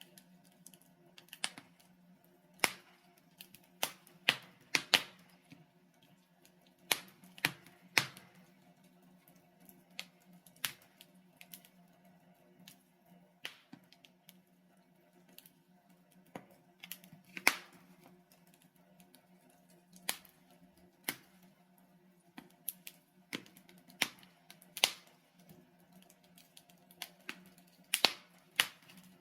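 Wood fire of burning logs in a fireplace crackling, with irregular sharp pops and snaps of varying loudness over a faint steady low hum.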